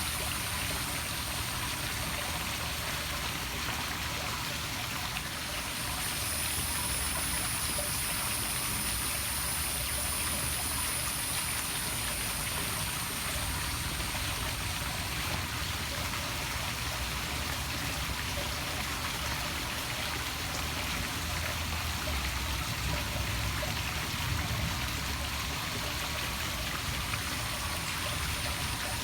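Small poolside waterfall splashing steadily into the pool, with an even, unbroken rush of falling water.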